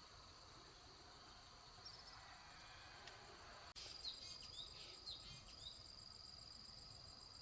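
Faint outdoor ambience: a steady high-pitched insect trill, with a few short bird chirps about halfway through.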